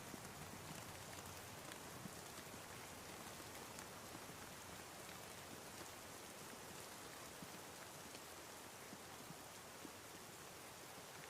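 Soft, steady rain, with scattered faint drop ticks over an even hiss.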